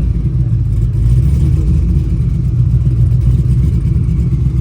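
Car engine running steadily with a low, even exhaust note.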